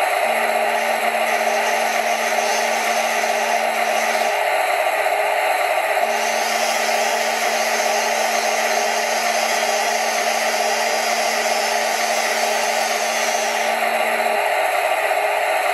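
Heng Long 1/16 RC tank running: a steady whirring of its electric drive motors and gearboxes, with a low hum that drops out for a couple of seconds about four seconds in, comes back, and stops near the end.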